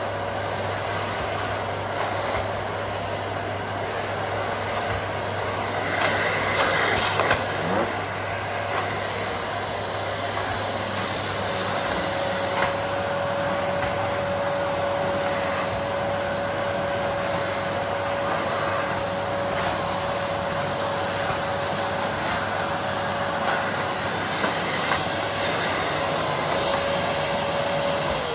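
Vacuum cleaner running steadily, with a few louder scuffs and knocks about six to eight seconds in and a thin steady whine that sets in about eleven seconds in.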